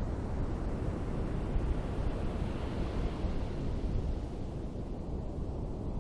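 Ocean surf washing on a beach, with wind buffeting the microphone as a low rumble. A wave swells and breaks about two to three seconds in, then eases off.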